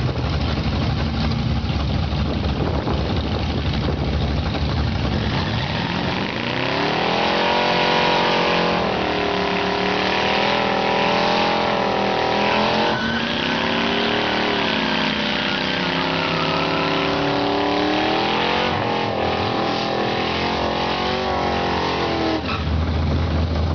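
Holden 308 V8 and a VT Commodore's 3.8 V6 doing side-by-side burnouts. A low idle rumble comes first. About six seconds in, the engines rev up and hold high revs, wavering, with the rear tyres spinning. Near the end they drop back to idle.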